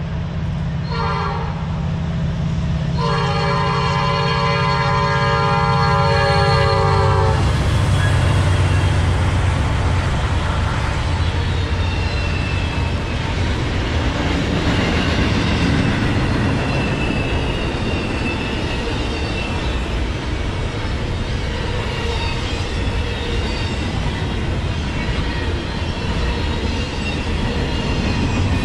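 Norfolk Southern freight locomotive's K5LA five-chime horn finishing the grade-crossing signal: a short blast about a second in, then a long blast held to about seven seconds, over the diesel engines' rumble as the locomotives pass. After that comes the steady rumble and clatter of double-stack intermodal cars rolling by, with a few faint high squeals.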